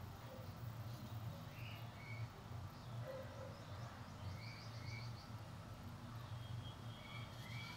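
Faint birds chirping in short high calls now and then, over a steady low hum.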